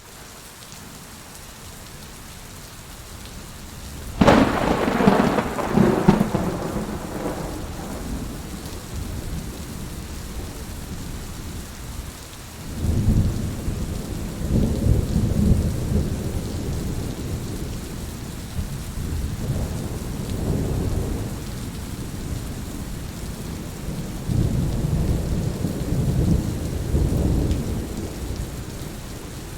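Heavy rain falling steadily in a thunderstorm. About four seconds in comes a sudden close thunderclap that fades over a few seconds, followed later by two spells of low rolling thunder.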